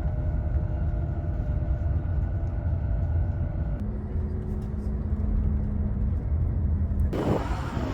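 A moving vehicle's steady low rumble with a faint steady hum in it; the tone shifts abruptly about four seconds in and again near the end, as if from one clip to the next.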